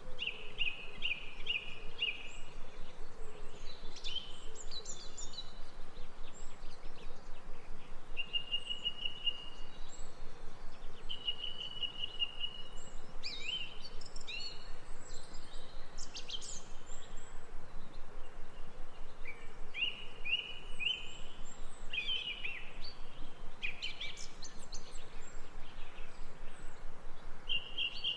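Songbirds singing in turn, trilled phrases and quick chirps repeated every few seconds, over a steady background hiss.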